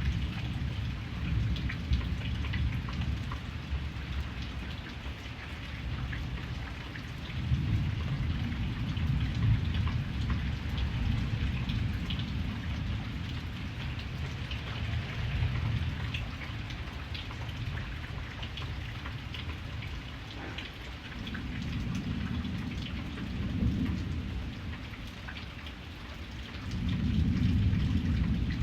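Steady rain pattering, with thunder rumbling low underneath; the rumble swells several times, strongest near the end.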